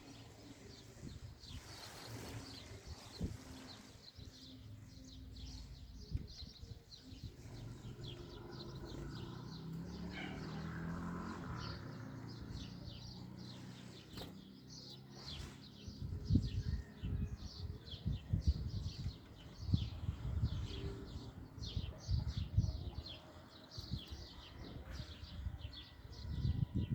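Wild birds chirping at a feeding spot, with many quick high chirps that grow dense about halfway through. Low thumps are mixed in during the second half.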